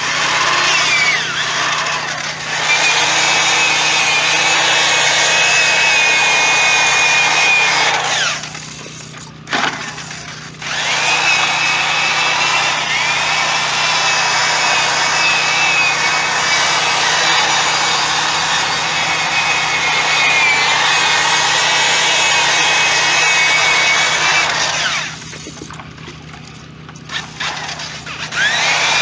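Electric drill spinning a foam polishing pad against a plastic headlight lens, buffing in cut polish. It runs in two long stretches, winding up at the start of each, stopping about 8 seconds in and again about 25 seconds in, and starting once more near the end.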